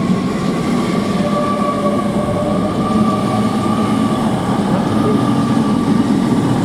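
Great Western Railway Class 800 bi-mode train pulling out of the station: a steady running rumble with a steady high whine over it.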